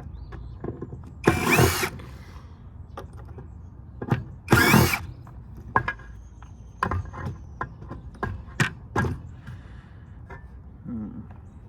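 Power drill spinning in two short bursts, its motor whine gliding up and down, with sharp metallic clicks and clinks of screws and parts being handled between them.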